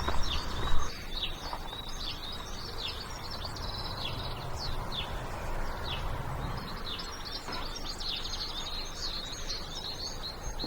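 Small songbirds chirping, with many short high calls and brief trills, some dropping in pitch. A low rumble and a few knocks come in the first second.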